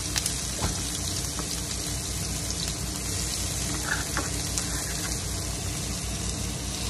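Chopped garlic, onion and ginger sizzling steadily in hot oil in a frying pan, with a few small ticks.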